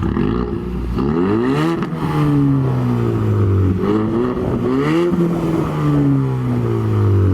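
2018 Mustang EcoBoost's turbocharged 2.3-litre four-cylinder, straight-piped with muffler and resonator deleted, rising quickly in revs twice and dropping back more slowly each time. The exhaust is loud.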